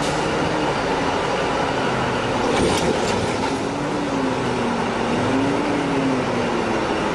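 Steady noise of heavy vehicle machinery, with a sharp knock about two and a half seconds in and a low wavering engine tone that rises and falls later on.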